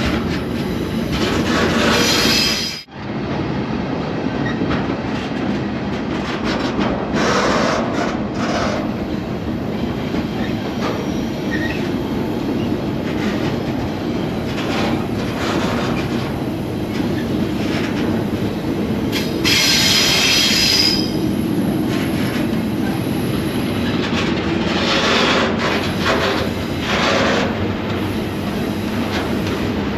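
Freight train rolling, heard from aboard a freight car: a steady rumble and clatter of wheels on rail, with metal wheel squeal rising over it in several short spells, the longest about twenty seconds in.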